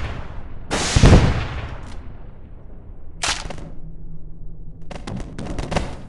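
Gunfire: a heavy blast with a long fading tail about a second in, a shorter blast near three seconds, then a rapid string of shots from about five seconds in, like machine-gun fire.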